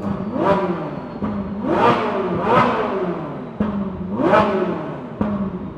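A vehicle engine revved in short repeated blips, each a quick rise in pitch and a slower fall, over a steady idle.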